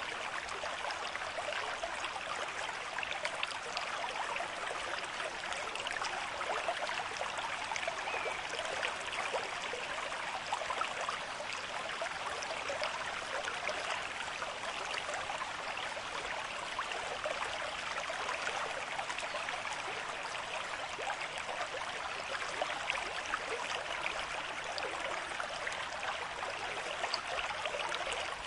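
River stream with moderate flow, water rushing and burbling over stones at a steady level.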